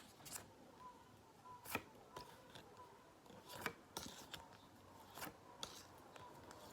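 Near silence broken by several faint, sharp clicks and taps, spaced irregularly about a second apart.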